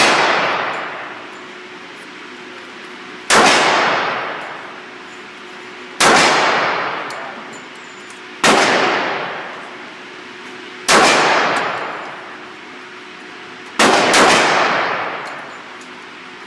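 Gunshots fired one at a time at a steady pace, about every two and a half seconds, each followed by a long echoing decay; the last two come close together.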